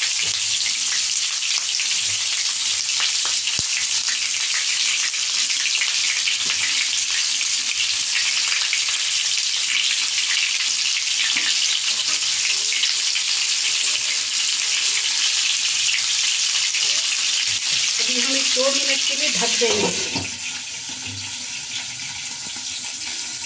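Stuffed bitter gourds frying in hot mustard oil in a kadai: a steady, loud sizzle. About 20 s in it turns quieter and duller once the pan is covered with its glass lid.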